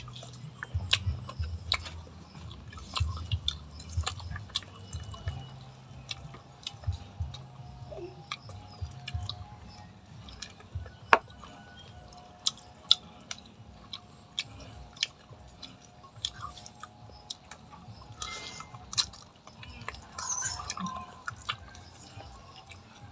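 Close-up eating sounds: chewing with many short, sharp clicks and smacks scattered throughout.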